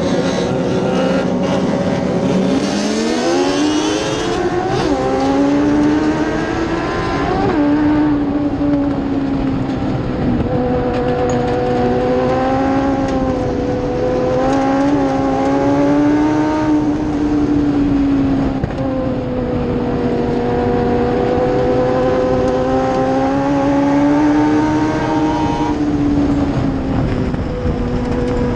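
Dwarf race truck's engine at racing speed. The revs climb steeply about two seconds in, then the engine note rises and falls in a regular cycle every eight or nine seconds, easing off and picking up again.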